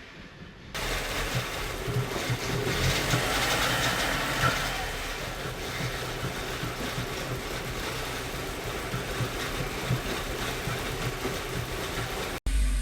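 2007 Audi A4's freshly rebuilt 2.0 turbocharged four-cylinder engine running at a fast idle just after starting, with a rapid, even low pulse. It comes in suddenly under a second in and cuts off abruptly shortly before the end.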